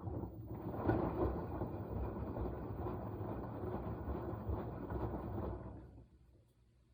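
Washing machine drum turning during the wash cycle: a low churning of the tumbling load that starts abruptly, runs about six seconds and fades out as the drum stops.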